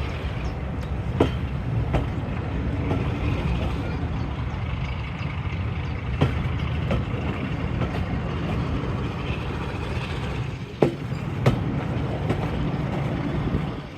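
A train hauled by a Class 45 diesel locomotive running along the line: a steady low rumble with occasional sharp knocks, which drops away at the end.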